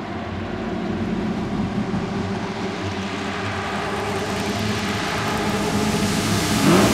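A car engine running steadily, its sound slowly growing louder, then revving up with a rising pitch near the end.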